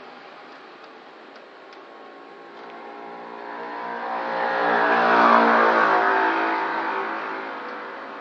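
A motor vehicle passing by: its engine swells to a peak about five seconds in and then fades away.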